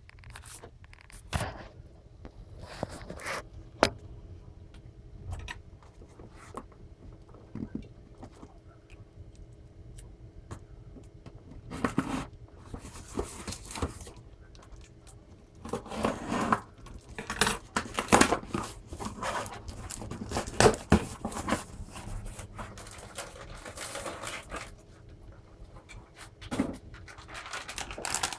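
A package being opened by hand: irregular rustling, scraping and light knocks of packing material, busiest in the second half.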